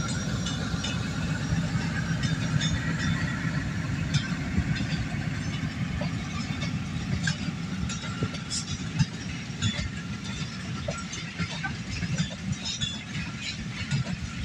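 Jaffar Express passenger train moving through the station with a steady low rumble that slowly eases off. A thin high squeal fades out in the first few seconds, and scattered light clicks and faint voices sit over it.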